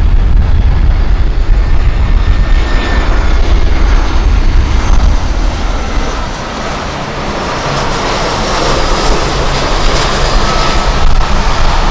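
Airliner engines passing close, the rushing sound growing in the second half, with heavy low rumble of strong wind on the microphone before it.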